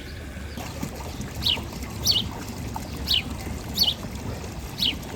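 A bird giving five short, high calls that fall in pitch, about one a second, over a steady low outdoor rumble.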